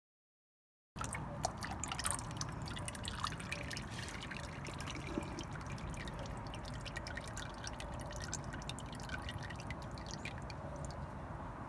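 Motor oil being poured into the engine's oil filler: a steady pouring trickle with irregular drips and gurgles. It starts abruptly about a second in.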